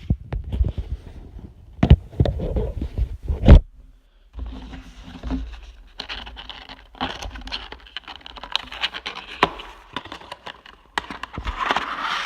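Hands opening a small die-cast model's box and its packaging. A few sharp knocks and clicks come first, the loudest about three and a half seconds in. After a brief pause come continuous scraping, rustling and crinkling.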